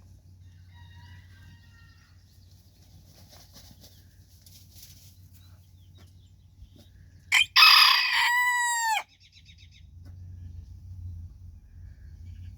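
A bantam rooster crowing once, a short high crow of about a second and a half that drops in pitch at the end. Faint clucking comes before it, over a low steady rumble.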